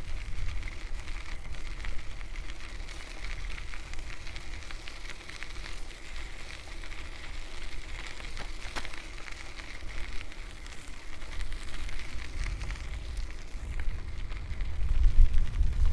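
Wind buffeting the microphone of a camera on a moving bicycle, a low gusting rumble that grows stronger near the end, over a steady crackle of bicycle tyres rolling along a path.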